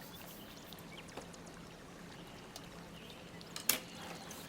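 Faint background noise with a steady low hum, a few small scattered ticks and one sharper click near the end.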